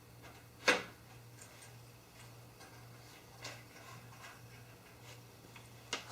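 Sharp metal clicks and light knocks of bolts and connectors being handled and fitted into aluminium extrusion channels, the loudest about a second in, over a steady low hum.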